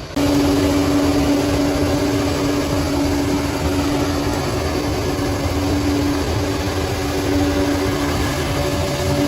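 Bulldozer's diesel engine running steadily, with a steady whine over the engine noise.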